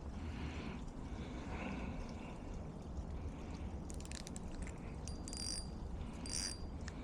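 Steady low rush of flowing creek water, with a few sharp clicks about four seconds in and two short high-pitched bursts near the end.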